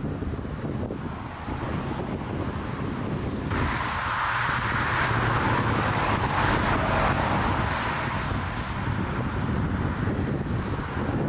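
Strong wind buffeting the microphone with a steady low rumble. About three and a half seconds in, a loud, even rushing noise comes in suddenly and holds to the end.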